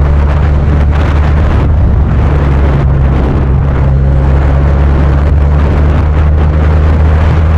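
Benelli TNT 300's parallel-twin engine running at a steady pitch through a Yoshimura aftermarket exhaust while cruising, with wind rushing over the microphone.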